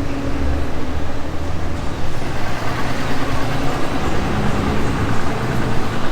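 Street traffic: vehicle engines and road noise, a steady dense rumble with a faint engine hum.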